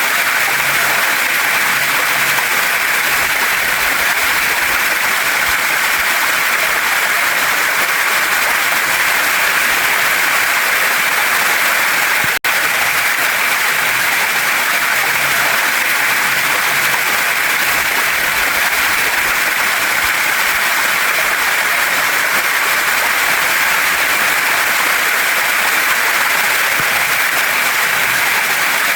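Waterfall and stream water rushing, a loud, steady wash of noise. About twelve seconds in, it cuts out for an instant and comes straight back.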